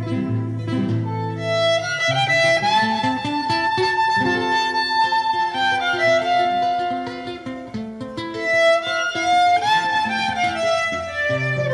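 Violin playing a melody with slides over strummed guitar chords.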